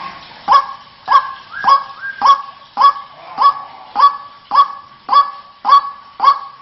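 White-breasted waterhen call: harsh "kwak" notes repeated evenly, a little under two a second, as used to lure the bird.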